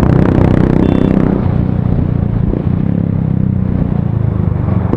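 Motorcycle engine running steadily, with a rushing noise over it that fades away about a second in.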